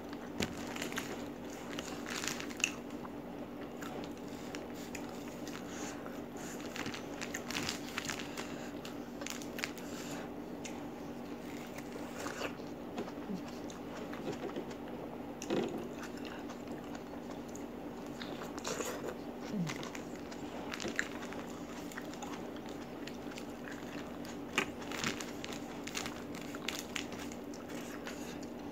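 Close-up chewing and crunching of a meal of chicken in green chilli sambal with raw chillies, with many scattered short crisp clicks of mouth and food. A steady low hum lies underneath.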